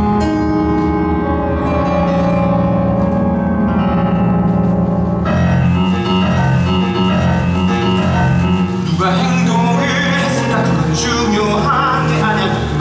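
Live musical-theatre band music, keyboard or piano led, with a fuller band texture coming in about five seconds in.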